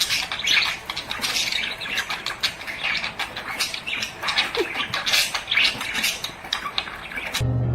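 Birds squawking and chattering: a dense, continuous run of short harsh calls.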